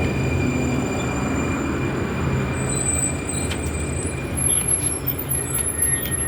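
A train or light-rail car running, with a steady low rumble and thin, high, steady wheel squeal, plus a few sharp clicks in the second half.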